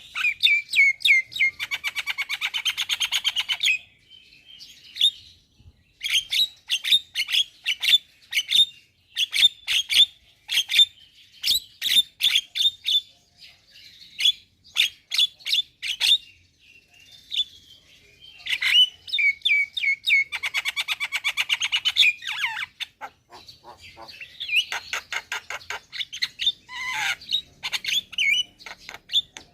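Javan myna chattering in full song: long runs of rapid, harsh notes, several a second, broken by short pauses.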